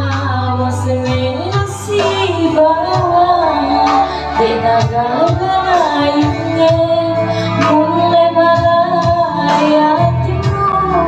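Amplified live music: a woman singing a gliding melody over loud backing music with a steady beat.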